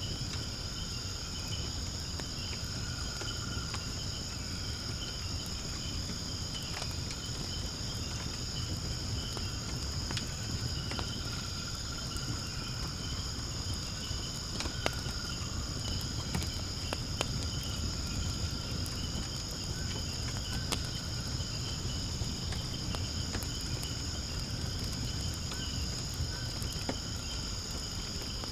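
Firewood burning in a fire pit, crackling with sharp pops now and then over a low rumble, against a steady high-pitched chorus of insects chirring.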